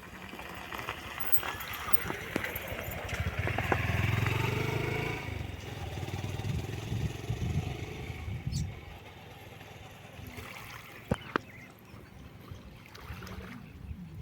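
Small boat's motor running on the water, swelling loudest about four seconds in, with a sharp knock later on.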